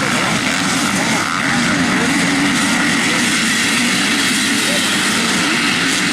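Several motocross bikes racing together, their engines revving in a continuous, loud drone of overlapping, wavering pitches.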